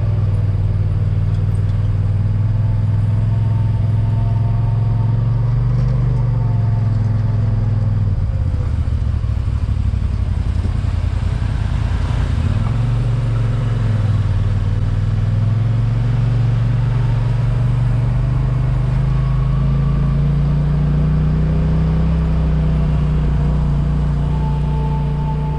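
Motor vehicle engine running as it drives, a steady low drone that dips in pitch a few times and then climbs slowly in the second half.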